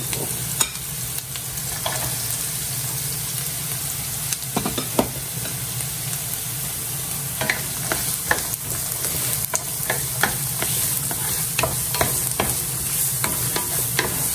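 Diced onion and garlic sizzling steadily in oil in a nonstick frying pan. From about halfway, diced carrots are stirred in with a wooden spatula, which ticks and scrapes against the pan.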